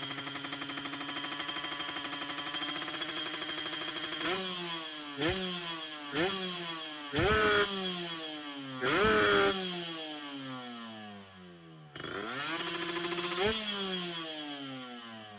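Kawasaki Ninja 150 two-stroke single engine revved hard: it holds high revs for about four seconds, then takes about five sharp throttle blips with the revs dropping away after each, the two longest and loudest about halfway through. Near the end it climbs once more and then falls away.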